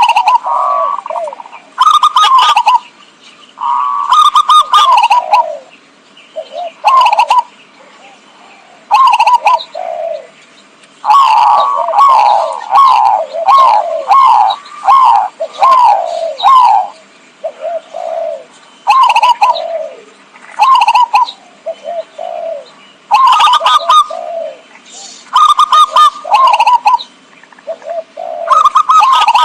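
Zebra dove (perkutut) cooing: loud bouts of quick, rhythmic coo notes, each bout lasting a second or more and repeated after short pauses, with one long run of notes near the middle. It is a lure call, played to draw wild zebra doves in.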